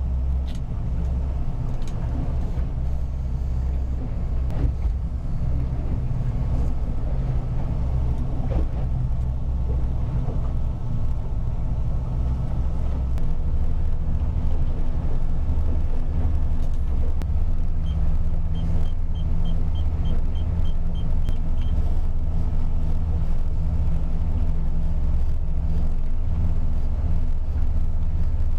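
Boat engine running steadily while the boat is under way, a constant low rumble that grows a little louder about halfway through. A quick string of about ten short, high electronic beeps sounds past the middle.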